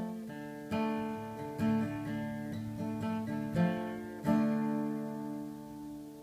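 Acoustic guitar playing after the last sung line: a few strummed and picked chords, then a final chord about four seconds in that rings out and slowly fades.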